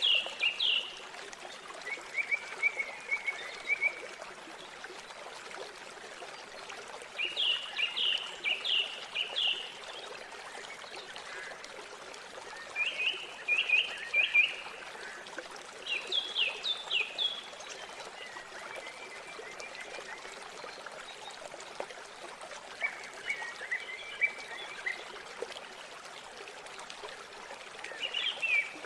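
River water flowing with a steady rushing hiss, while a songbird repeatedly sings short phrases of rapid, high, down-slurred notes, each about a second long, every few seconds.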